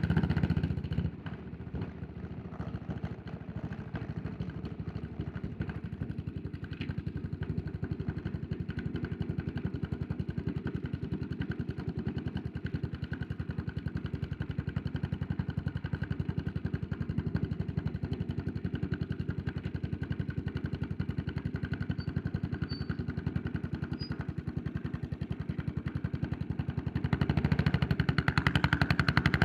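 Yamaha SR400's air-cooled single-cylinder four-stroke engine, loud on the throttle at first, dropping about a second in to a lower, steady even beat at low revs, then getting louder again near the end as the throttle opens.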